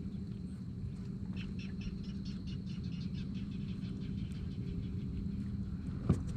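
Electric trolling motor humming steadily under wind rumble on the microphone, with a run of faint high chirps between about one and three and a half seconds in and a single sharp knock near the end.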